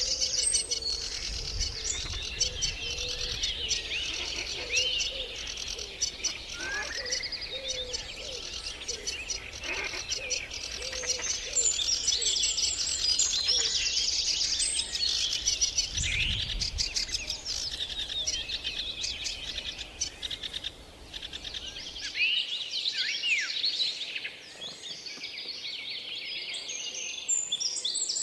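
Several small songbirds chirping and singing at once, a dense chorus of short overlapping calls and trills. A low rumble underneath stops about three-quarters of the way through.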